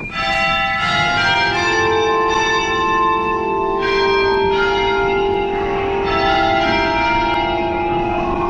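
Church bells ringing close by, with several bells struck one after another and each ringing on over the others. Wind rumbles on the microphone underneath.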